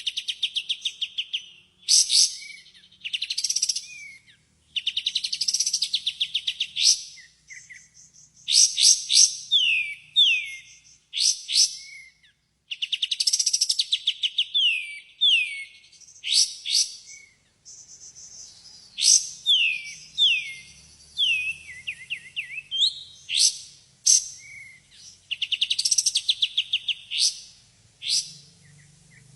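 Kapas tembak singing: repeated loud phrases every second or two of fast trills and quick falling whistled notes.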